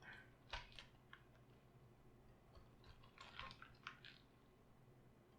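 Faint crisp crunching and crackling from cabbage being worked by hand, in two short bursts: one near the start and one about three seconds in.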